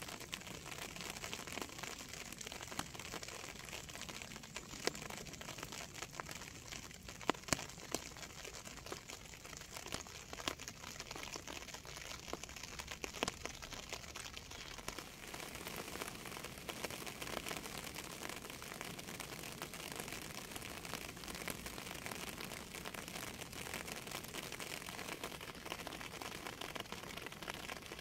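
Steady rain, with a dense scatter of individual drops ticking sharply throughout and a few louder drops about seven seconds in.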